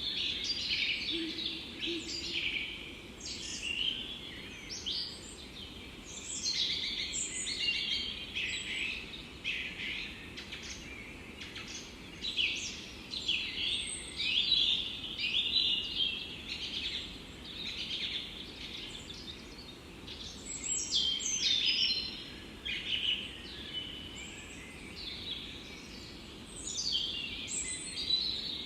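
Several songbirds chirping and trilling in a forest, in overlapping bursts, over a faint steady background hiss.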